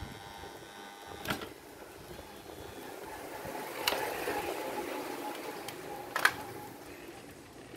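Three short, sharp taps, spaced a couple of seconds apart, with light scraping or rustling between the second and third, as small parts are handled at a workbench.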